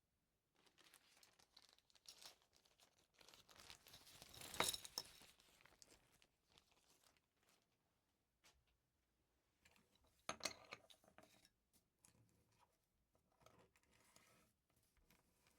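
Hands flipping through a LEGO instruction booklet and sorting pieces: quiet rustling and crinkling of paper and plastic with small scattered clicks, loudest about four and a half seconds in and again around ten seconds.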